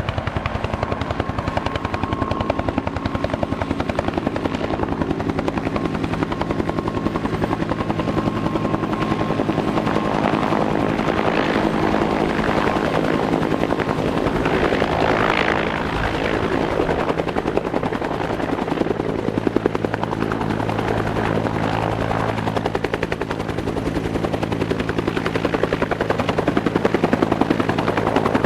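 Bell UH-1H Iroquois helicopter running, its two-blade main rotor making a fast, steady beat over the engine's drone.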